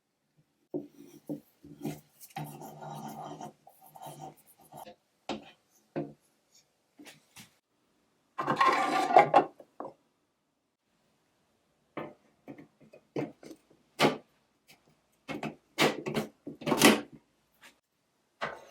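Hand work on parts at a workbench: intermittent rubbing, scraping and clicks. There is a louder rasping scrape about eight seconds in and a few sharp clicks near the end.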